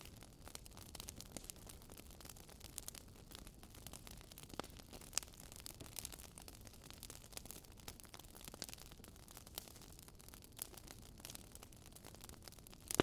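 Fireplace fire crackling faintly: scattered sharp pops and snaps over a low steady hiss.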